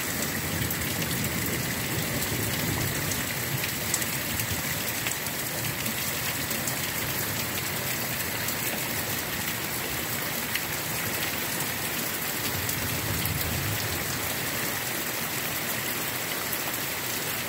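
Heavy rain pouring down steadily, with scattered sharper drops tapping close by.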